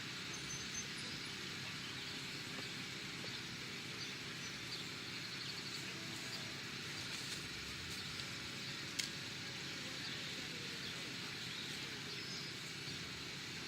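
Steady outdoor background noise, a low rumble under a high hiss, with one sharp click about nine seconds in.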